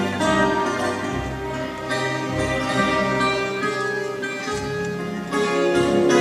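Instrumental passage of a fado song: plucked guitars playing with an orchestra's bowed strings, the music swelling a little louder near the end.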